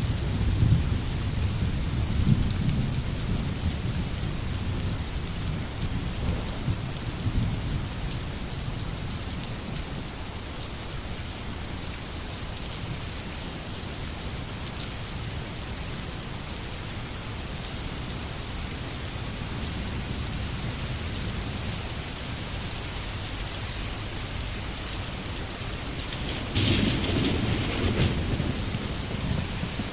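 Steady rain falling on a forest, with low thunder rumbling that fades over the first several seconds. A shorter, louder rumble of thunder comes near the end.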